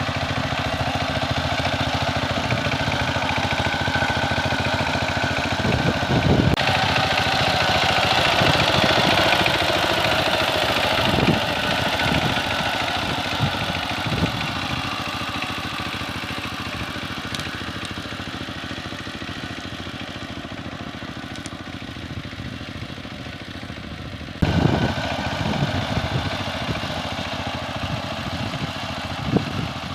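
Power tiller's engine running steadily with a knocking clatter. The sound changes abruptly twice, about a fifth of the way in and again near the end.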